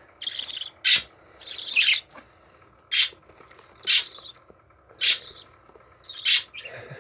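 Budgerigars chirping: short, sharp calls about once a second.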